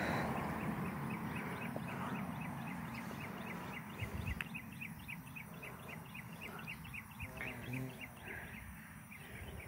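A bird chirping a fast, even series of short high chirps, about three to four a second, over a faint low rumble that is strongest at the start.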